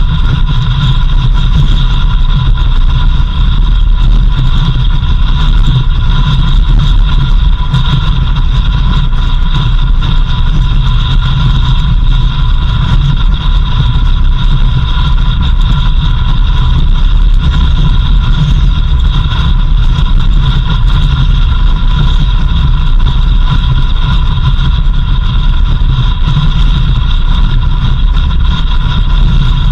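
A vehicle driving steadily: a constant low engine and road rumble, with a steady high-pitched whine running over it.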